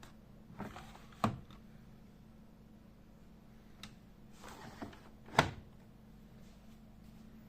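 Two sharp clunks about four seconds apart, each after a short sliding rustle, like something being slid and shut, over a low steady hum.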